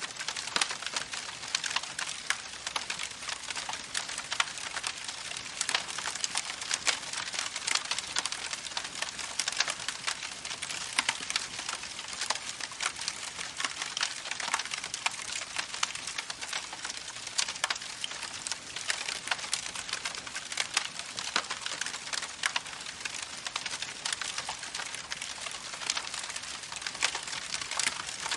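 Campfire burning with a steady hiss and constant dense crackling, irregular sharp pops of burning wood, some louder than others.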